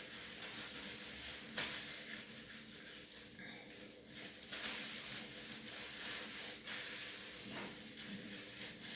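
Soft steady rustling hiss with a few light clicks, from hands working cream hair dye through hair.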